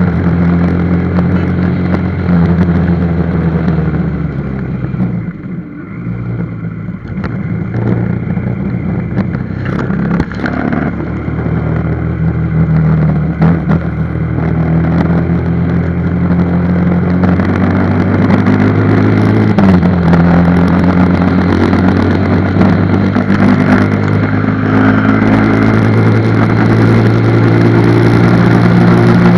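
Motorcycle engine running steadily on the move. Its pitch and level drop about five seconds in, then climb again, with further pitch changes as the throttle varies later on.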